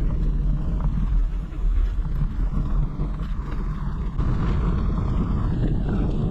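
Steady rumbling wind buffeting the microphone, with road noise from a moving bicycle.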